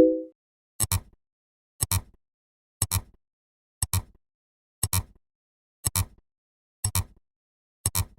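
Counting sound effect: a short, sharp double click about once a second, eight times, after a brief low beep right at the start.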